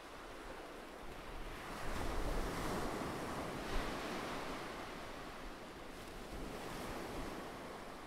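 Ocean surf: a wave swells and breaks about two seconds in, with a short splash about four seconds in, then the wash eases off.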